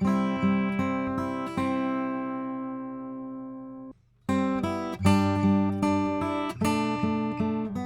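Acoustic guitar playing chords through a Warm Audio WA-2A optical compressor. A chord rings out and fades for about two seconds. The sound drops out briefly about four seconds in, then the playing starts again.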